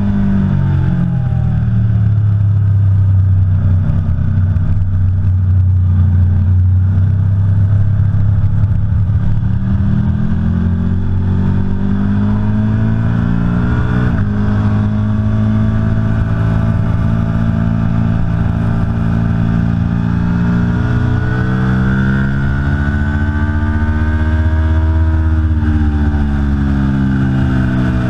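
Aprilia Tuono V4 Factory's V4 engine being ridden hard on a race track. Its pitch drops off under deceleration, climbs as it accelerates, changes abruptly about two-thirds of the way through the first climb as a gear changes, climbs again and then falls away near the end.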